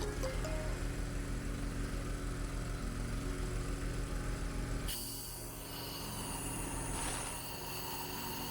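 Air compressor running with a steady low throb. About five seconds in, compressed air starts hissing and whistling from a blow gun blown into the cylinder head's ports, a leak test of the ground-in valve seats.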